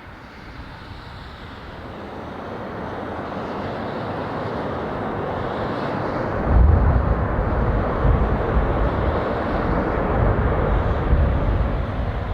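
Swiss Airbus A330's jet engines growing steadily louder on landing, then a deep rumble coming in suddenly about halfway through and holding, as reverse thrust is applied on the wet runway.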